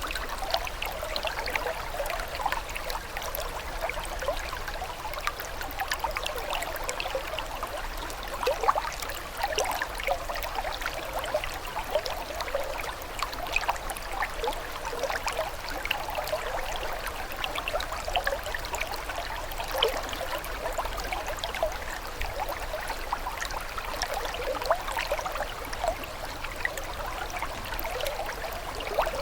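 Running water babbling steadily, full of small quick gurgles and splashes, like a shallow stream over stones.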